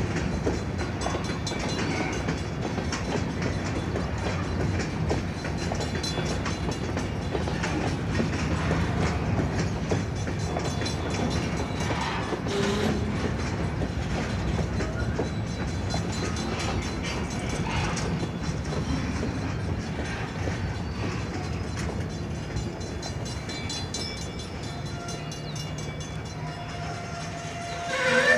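Freight train of covered hopper cars rolling past: a steady rumble of steel wheels on the rails, with a few clanks along the way.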